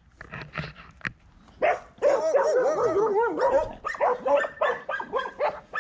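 Several dogs barking together at another dog further off. A few single barks come first, then from about a second and a half in a dense, overlapping run of barking.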